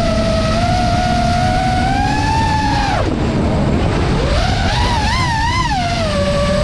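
An FPV freestyle quad's brushless motors (iFlight Xing2 2207 1855Kv on 6S, spinning Gemfan Hurricane 51466 props) give a high whine that follows the throttle. The pitch climbs slowly, then drops sharply about three seconds in as the throttle is chopped. It rises again with a quick up-and-down warble of throttle blips around five seconds in, then settles back to a steady cruise tone.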